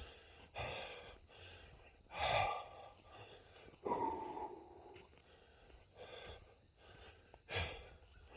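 A man breathing out loud, several breaths spaced a second or two apart, one of them a sigh with a bit of voice in it.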